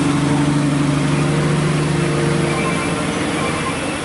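Heavy diesel engine running steadily at low revs, a deep even hum.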